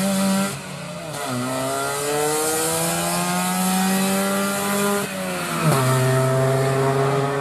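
Rally car engine under hard acceleration, its pitch climbing, with an upshift about a second in and another near six seconds, where the pitch drops suddenly and climbs again.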